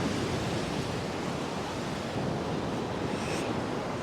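Surf washing onto a sandy beach: a steady rush of breaking waves.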